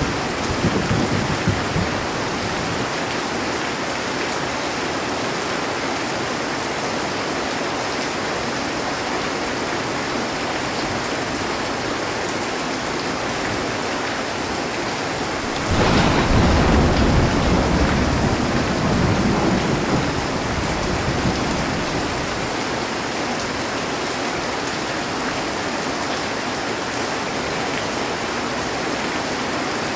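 Heavy rain falling steadily on a metal roof. Just over halfway through, a thunderclap breaks in suddenly and rumbles away over about six seconds, and the last of an earlier rumble fades out at the start.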